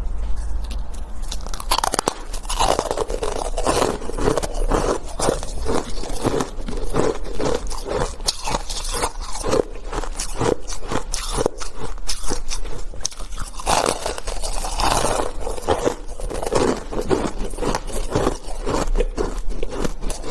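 Hard shaved ice being bitten and chewed close to the microphone: rapid, continuous crunching and scraping, with a steady low hum underneath.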